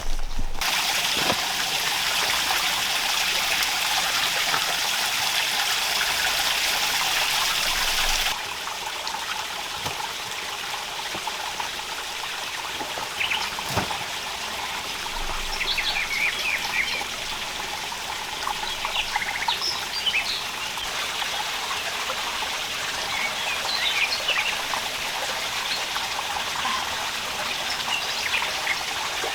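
Steady rushing water noise that drops sharply in level about eight seconds in; from about the middle on, birds chirp now and then over the water.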